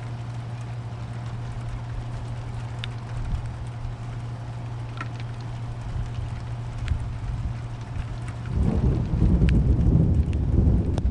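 Steady rain with a few sharp drips and a steady low hum under it; near the end a loud, low rumble of thunder rolls in.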